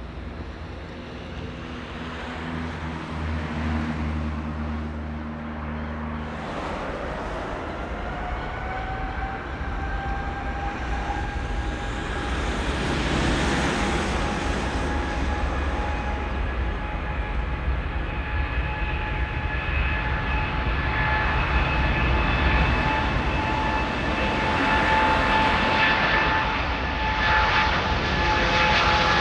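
Jet airliner's engines: a whine that rises slightly in pitch about six seconds in and then holds steady over a rumble, growing louder as the aircraft comes closer.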